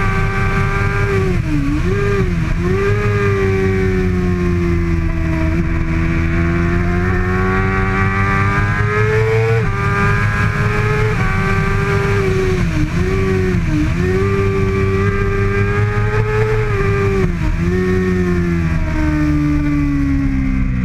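2013 Kawasaki ZX-6R 636 inline-four racing engine held at high revs under hard riding. Its pitch dips sharply and snaps back a few times, about two seconds in, twice around thirteen seconds and again around seventeen to eighteen seconds, with gear changes and corner entries, and sags near the end.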